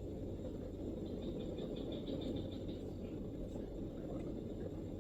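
A distant bird's rapid trill of short high notes, about seven a second, lasting a second and a half, over a steady low background rumble.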